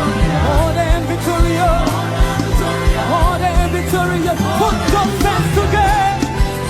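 African gospel praise music: a voice singing a wavering, ornamented line over a steady drum beat and held bass and keyboard notes.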